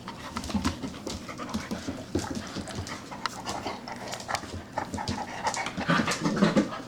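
Labrador puppies playing and scuffling together: a busy run of small clicks and scuffs, growing louder about six seconds in.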